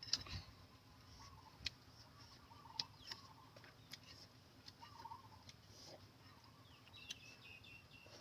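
Faint short wavering bird calls, with scattered sharp clicks, at a low level.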